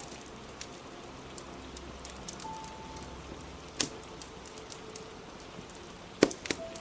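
Steady rain with the small, scattered crackles of a fire. There is a sharper crack a little past the middle and a louder cluster of cracks near the end.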